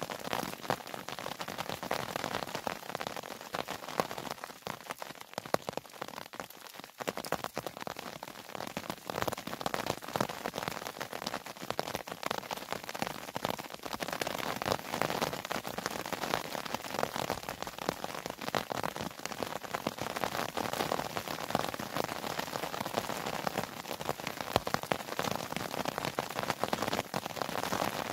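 Steady rain falling, a dense, even run of small drop hits with no let-up.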